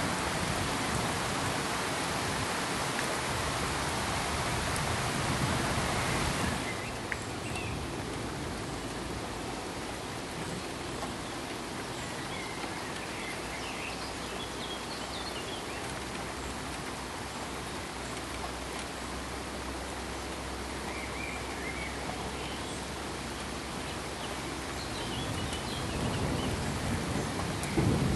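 Steady rain hiss with thunder rumbling at the start and building again near the end. About six seconds in, the sound drops suddenly to a quieter, even rain hiss with faint high chirps.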